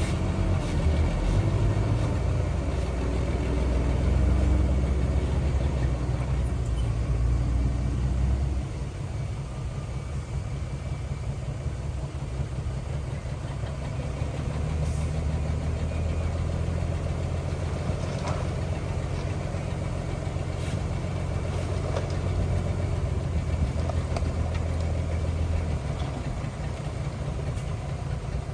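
Heavy earthmoving machine's engine running under load, a deep steady rumble. It is loudest for the first eight seconds, drops back about eight seconds in, then builds again before easing near the end.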